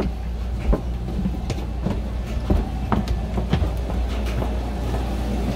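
Moving passenger train heard from inside the railroad car: a steady low rumble with irregular knocks and rattles.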